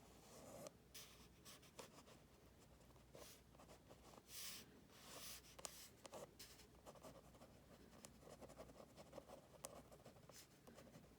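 Drawing strokes scratching on paper: irregular quick scribbles and hatching, with a longer stroke about four and a half seconds in.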